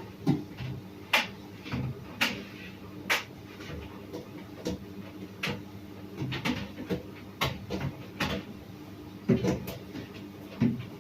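Tricity Bendix TM220W tumble dryer running: a steady low hum with sharp clicks and knocks coming irregularly, roughly once a second.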